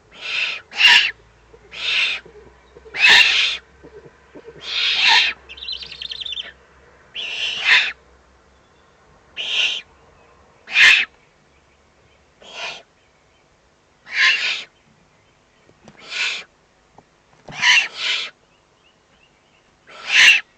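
Eurasian eagle-owl chicks giving hoarse, hissing begging calls while being fed, one short rasp every second or two.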